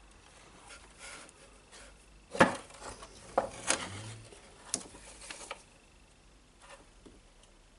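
Small hard objects handled on a workbench: a sharp knock about two and a half seconds in, the loudest sound, then a few lighter clicks and rubbing over the next three seconds.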